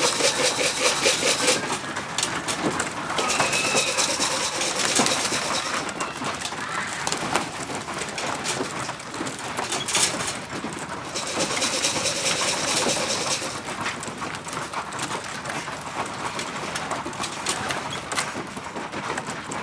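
Pigeons in a loft, cooing and stirring, with two spells of rapid rattling, one near the start and one about eleven seconds in.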